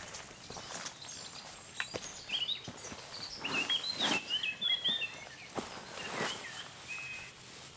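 A small songbird singing quick, jumping chirpy phrases over a few seconds, with short crunches in the wood-chip mulch between them.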